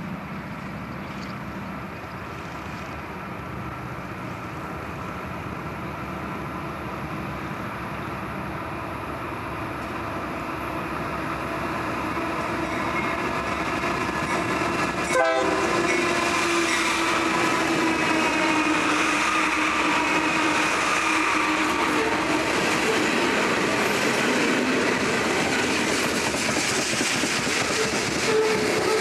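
A train approaching and passing, growing steadily louder, its horn sounding with several steady notes that sag slightly in pitch. About halfway through it jumps suddenly louder as it draws close, wheels clattering over the rail joints.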